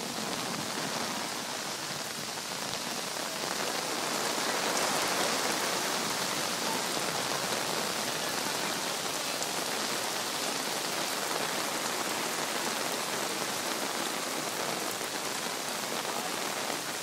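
Steady rain falling, an even hiss that swells slightly about four seconds in.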